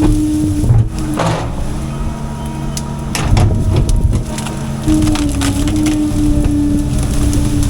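CAT 310 excavator running while it crushes and breaks wood, with cracking and splintering about a second in and again around three seconds in. The machine's steady hum fades during the breaking and comes back about five seconds in.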